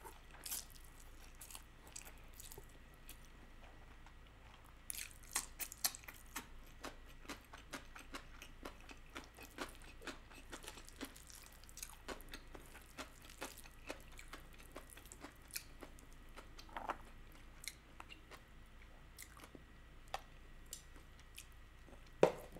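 Close-miked chewing of a mouthful of stir-fried instant noodles: faint, with many small wet mouth clicks, thickest about five seconds in.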